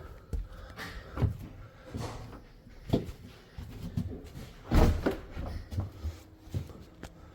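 Footsteps and a door as someone walks into a house: a series of irregular thumps and knocks, the loudest about five seconds in.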